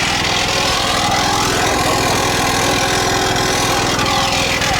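An engine running steadily at idle, an even low drone that does not change.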